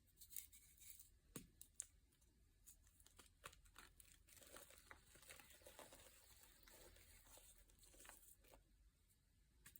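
Quiet crinkling and tearing: something being crumpled and torn, with many small crackles and clicks in quick, irregular succession.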